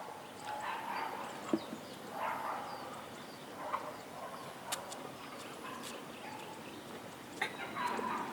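An animal calling several times in short calls a second or two apart, with a few sharp knocks in between.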